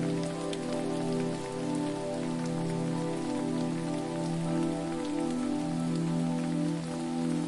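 Steady rush of falling water with a dense patter of drops, over a sustained low chord of droning tones that shifts slowly and stands out as the loudest part.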